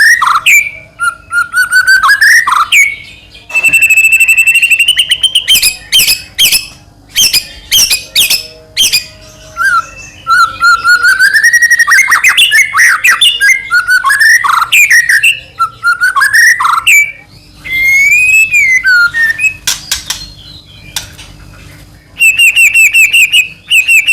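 White-rumped shama (murai batu) in full song: loud whistled phrases that glide up and down, fast runs of repeated notes, and harsh clicking chatter.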